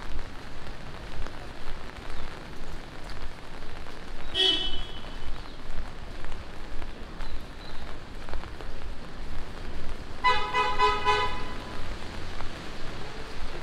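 Steady rain falling on the street. A short horn toot sounds about four seconds in, and a quick run of about six horn beeps comes about ten seconds in.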